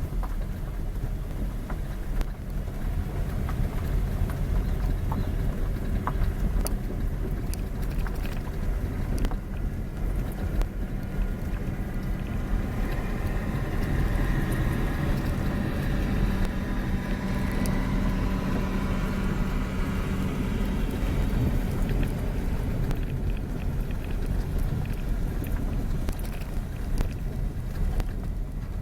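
Steady vehicle engine and road noise with wind on the microphone; a stronger engine hum with a clear pitch swells and fades in the middle.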